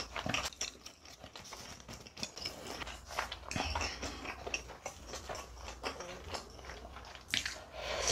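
Close-miked chewing and wet mouth sounds of a person eating a mouthful of food, with a few soft clicks as a ladle dips into a pan of ramen.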